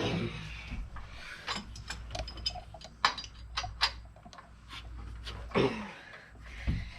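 Hand wrench clicking and metal clinking in irregular short knocks while a bracket bolt on the engine is worked loose, with a couple of brief scrapes of tool and metal.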